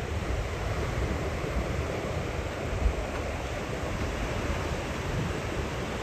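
Ocean surf breaking on a beach, a steady wash of waves, with wind buffeting the microphone in low gusts.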